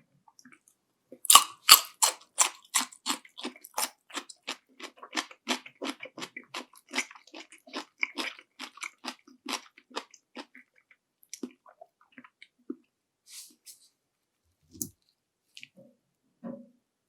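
Panko-fried shrimp being bitten and chewed close to the microphone: two loud, crisp crunches just over a second in, then steady crunchy chewing about three to four bites a second that thins out after about ten seconds into a few soft mouth sounds.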